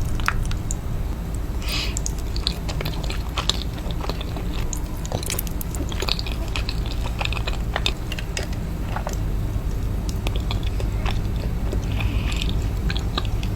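Close-miked eating sounds: chewing and biting, with many small wet mouth clicks and smacks, from someone eating a hot dog and mac and cheese. A steady low hum runs underneath.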